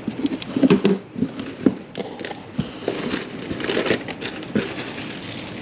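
Packaging being rummaged through: plastic and paper rustling and crinkling, with scattered irregular clicks and light knocks as items are handled out of a box.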